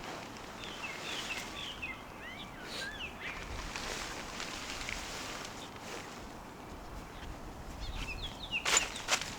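Small birds chirping in quick short notes, in two flurries, over a steady haze of wind. Two sharp clicks or knocks near the end are the loudest sounds.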